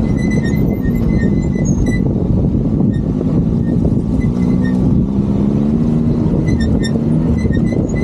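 A motor vehicle's engine running steadily, its pitch drifting gently up and down, with short high squeaks scattered through it.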